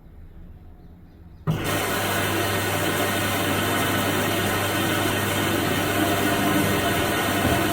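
Washing machine, quiet with a low hum, then about one and a half seconds in a loud steady rush of water starts suddenly over a low motor or valve hum, as a stage of the wash cycle begins.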